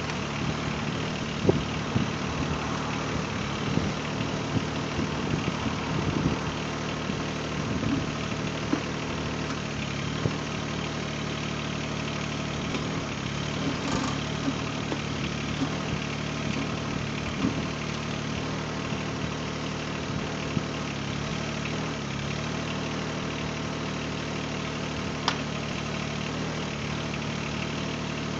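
Mahindra eMax 20S HST compact tractor's diesel engine running steadily while the backhoe digs, with irregular knocks and clanks from the backhoe working in rocky ground. The knocks come most often in the first ten seconds, with a few single ones later.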